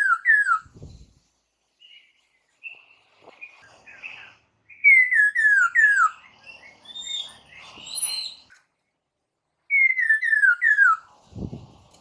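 Poksay mandarin (masked laughingthrush) singing: loud runs of four to five quick, descending whistled notes, repeated about every five seconds, with rougher chattering notes between them. A dull thump comes near the end.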